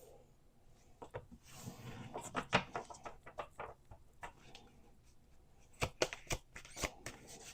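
A deck of oracle cards being shuffled by hand: a run of quick clicks and taps, then a few separate sharper clicks near the end.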